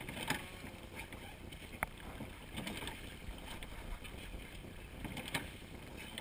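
Crew rowing a seine boat: oars knocking in their oarlocks and pulling through the water in slow strokes, a few sharp knocks a couple of seconds apart over a steady wash of water and wind on the microphone.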